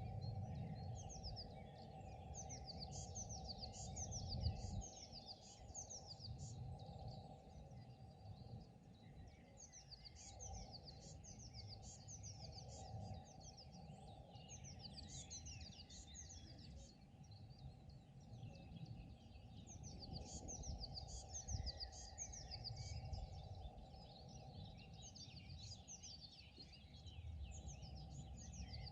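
Songbirds singing in quick, high chirping phrases, one run after another with short gaps, over a steady low rumble of background noise.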